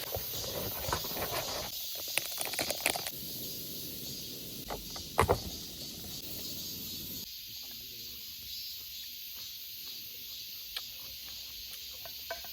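Food cooking on a camping stove, a steady hiss and sizzle, with clinks of utensils in the first few seconds and a sharp double knock a little after five seconds in.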